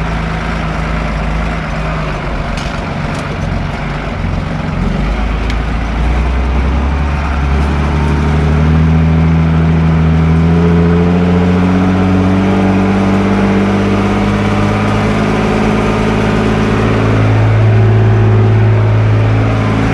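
Fendt 312 LSA tractor's diesel engine running at low revs, then speeding up steadily from about five seconds in and holding at higher revs.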